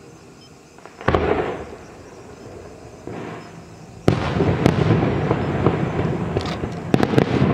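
Aerial fireworks: a sharp bang about a second in and a smaller one around three seconds, then from about four seconds a dense barrage of rapid bangs and crackling.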